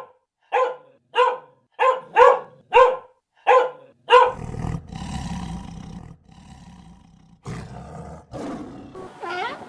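Animal calls: a run of short, pitched calls repeated about twice a second, giving way about four seconds in to a rougher, noisier call with a low rumble that fades and then returns more weakly.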